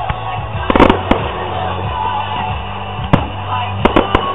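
Aerial firework shells bursting with sharp bangs over steady music: a loud cluster of bangs about a second in, a single bang just past three seconds, and a few quick ones near the end.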